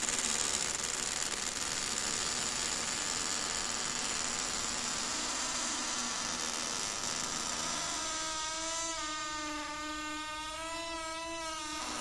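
Door hinge creaking: a rough, grating scrape that turns about eight seconds in into a long, drawn-out squeal whose pitch wavers, ending shortly before the end.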